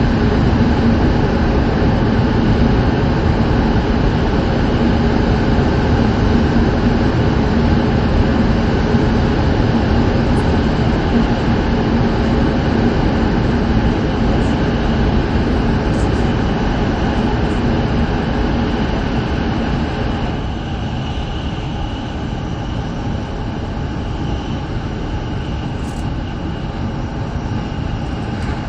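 E7 series Shinkansen running at speed, heard inside the passenger cabin: a steady rumble and rush of wheels, track and air. About two-thirds of the way through it becomes slightly quieter and duller.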